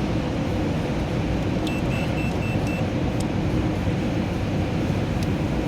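Steady low mechanical rumble, like a motor or engine running, holding an even level throughout, with a faint pulsing high beep about two seconds in.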